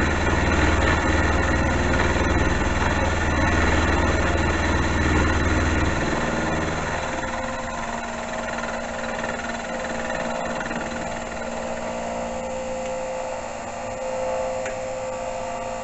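Small metal lathe running steadily at about 1150 RPM, turning steel under power feed. The heavier low hum of the cut drops away about six seconds in, leaving the machine running more quietly.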